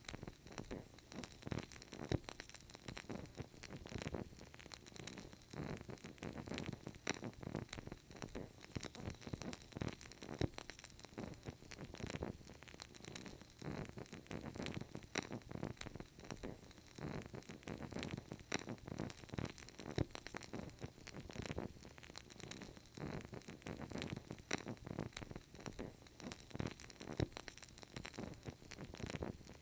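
Burning candle crackling: a dense run of small, irregular pops and ticks over a soft hiss.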